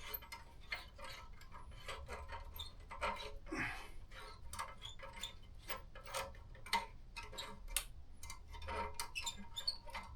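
Faint, irregular metallic clicks and ticks of hand tools working the exhaust fasteners loose on a motorcycle.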